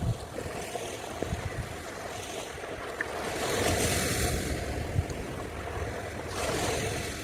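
Ocean surf washing onto a beach, swelling about halfway through and again near the end, with wind rumbling on the microphone.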